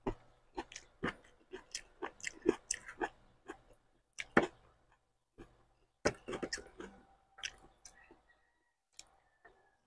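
Close-miked eating sounds of a man chewing a mouthful of rice and fish: irregular wet clicks and smacks of the mouth in clusters, with a short pause about halfway through.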